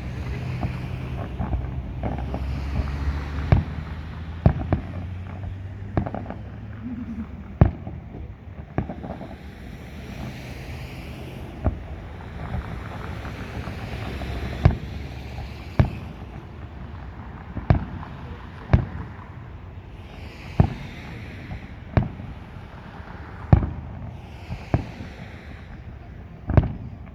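Fireworks display: sharp bangs of bursting shells every second or two, with a hiss that swells and fades between them.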